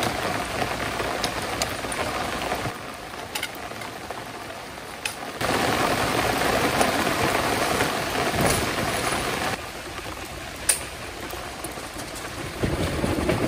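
Steady rain falling, its loudness jumping up and down several times, with a few light clicks and one sharper tap about eleven seconds in.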